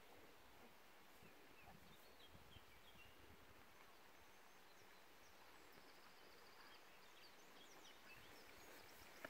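Near silence: faint outdoor hiss with scattered faint chirps and a short trill from small birds.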